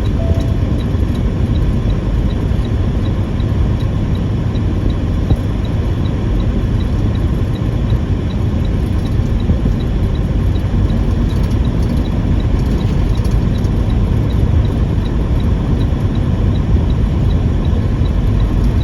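Semi truck driving at steady speed, its engine and tyres making a continuous low rumble, with a faint regular ticking two or three times a second.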